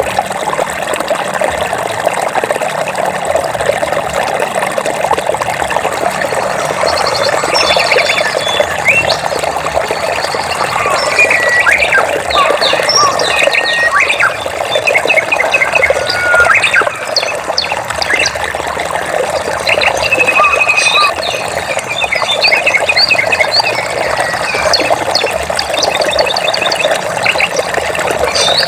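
Stream water running and trickling steadily, with many birds chirping and trilling over it in short, quick series from about a quarter of the way in.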